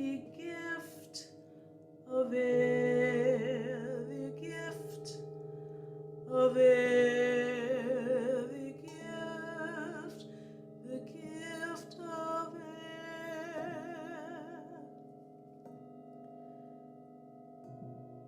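A woman's wordless singing with a strong vibrato, in several long held phrases, over sustained keyboard drone chords that change every few seconds. The voice drops out for the last few seconds, leaving the drone.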